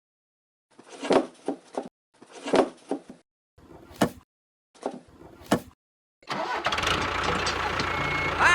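Several short engine-cranking bursts, cut apart by dead silence, then from about six seconds in an engine running steadily, with a short high beep near the end.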